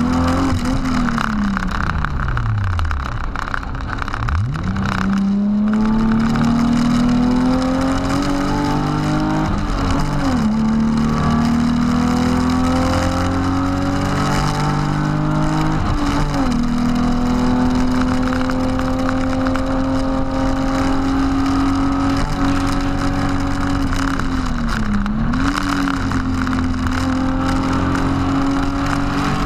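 BMW E36 328i's 2.8-litre straight-six heard from inside the cabin at speed. The revs fall away over the first few seconds, then climb hard, dipping and recovering as it changes up about ten and sixteen seconds in. After that the revs hold fairly steady, with a brief dip near the end.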